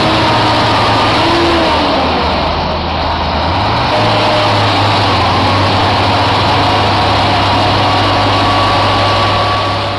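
Heavy truck engines running hard under load as they pull a truck stuck in mud. The engine note rises about four seconds in, then holds steady.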